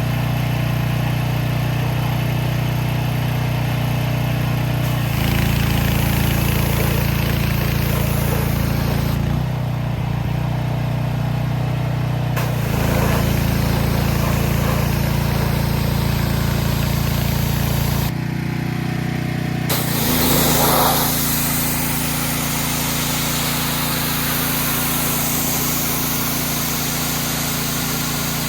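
An engine running steadily, heard in several stretches that change abruptly from one to the next, with a hiss over some of them.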